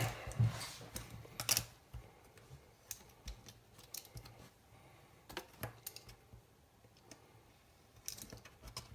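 Scattered light clicks and taps from small plastic case parts and adhesive tape being handled, in a few short clusters.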